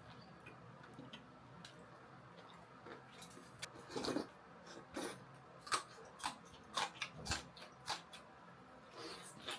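Close-up eating sounds: irregular short crunches and clicks of chewing food, more frequent after about three seconds.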